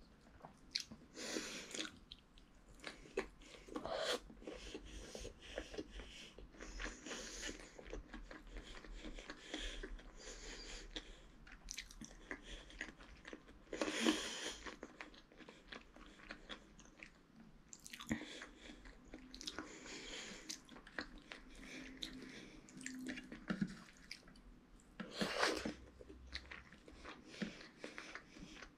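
A child chewing and biting mouthfuls of rice and chicken curry eaten by hand: irregular wet mouth sounds, with a few louder bites.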